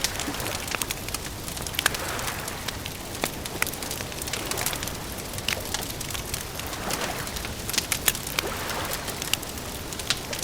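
Campfire crackling: sharp, irregular pops and snaps over a steady hiss.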